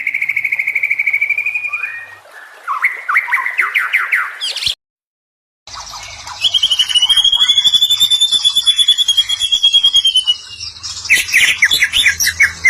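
White-rumped shama (murai batu) calling in fast rattling trills of rapidly repeated notes, with a long buzzy trill in the second half. The sound cuts out completely for about a second midway.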